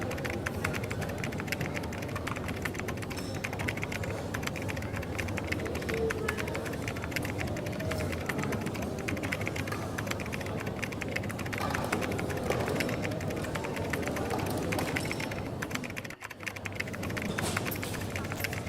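Computer keyboard typing, a fast run of small clicks that keeps going, over coffee shop background ambience, with a brief drop-out about sixteen seconds in.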